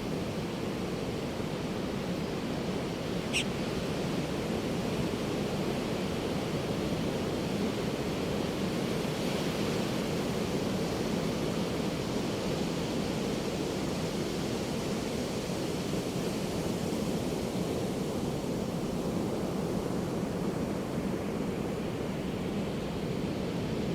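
Ocean surf washing steadily onto a beach, an even rushing hiss of breaking waves. A single brief high-pitched sound cuts in about three seconds in.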